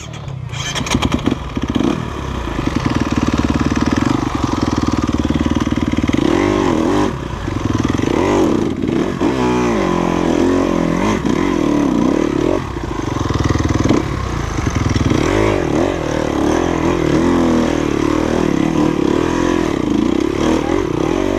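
Dirt bike engine running under load, its pitch rising and falling again and again with the throttle.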